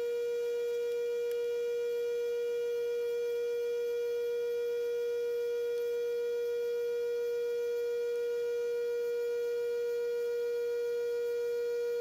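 Bench grinder running, giving off a steady, unchanging high whine.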